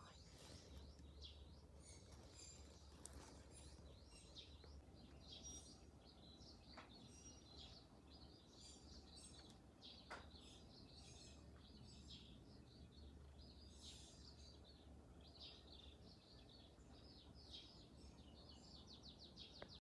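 Faint chirping of small birds, many short calls throughout, over a low steady hum.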